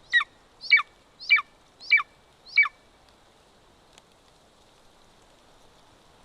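Golden eagle calling at the nest: five loud, high calls about two-thirds of a second apart, each sliding downward in pitch, in the first three seconds.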